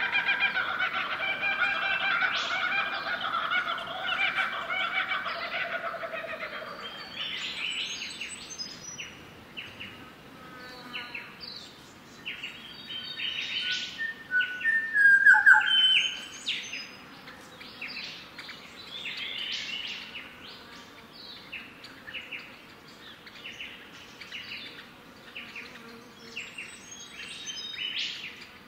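Several wild birds calling and chirping. A long, layered call comes first, then many short high chirps in quick succession, with one louder call about halfway through.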